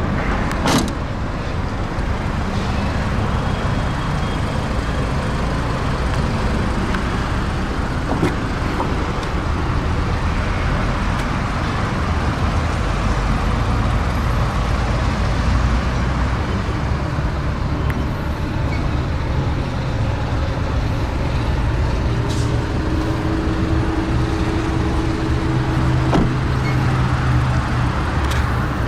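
A sharp thump about a second in, fitting a car's trunk lid being shut, then a steady rumble of vehicle and road-traffic noise.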